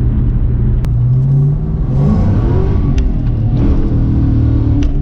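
2004 Mustang Mach 1's four-valve V8 running under way at a steady drone, rising in pitch as it accelerates about a second and a half in, then holding a steady pitch again.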